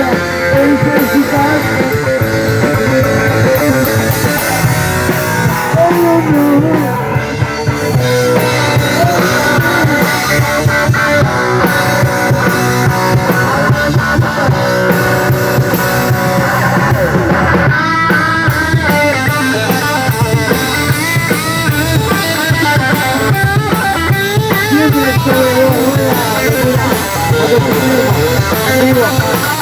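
A rock band playing live, with electric guitar and drum kit over a steady bass, loud and unbroken. In the second half a melodic line wavers up and down over the band, likely a guitar lead or singing.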